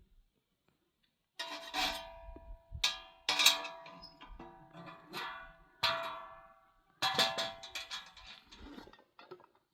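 A series of ringing metallic clangs, about six separate strikes each left to ring and fade, beginning about a second and a half in.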